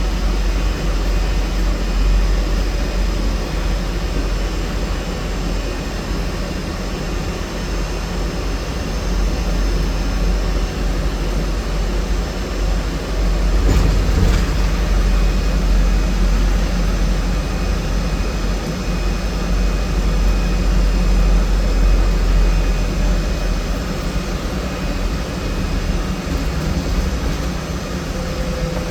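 Cabin noise of a trolleybus under way: a steady low rumble with faint steady whining tones above it, and a brief louder jolt about halfway through.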